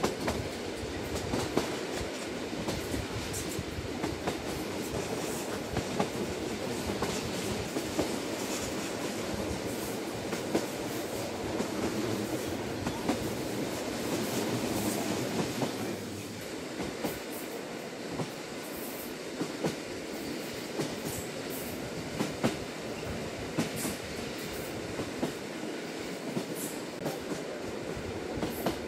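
Inside the carriage of the Lilac limited express, an electric train, running at speed: a steady rumble of wheels on rail with frequent short clicks and knocks from the track. The rumble eases a little about halfway through.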